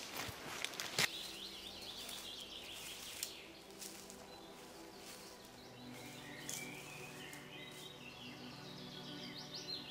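Small birds chirping and singing, the song growing busier in the second half. A few knocks sound near the start, and a faint steady low drone comes in about halfway.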